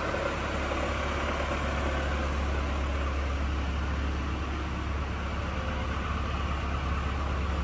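1994 Nissan Hardbody pickup's four-cylinder engine idling steadily.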